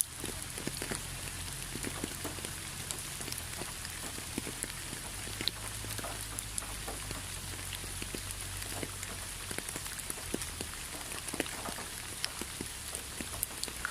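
Steady rain falling, a constant hiss with many separate drops striking a surface at irregular moments.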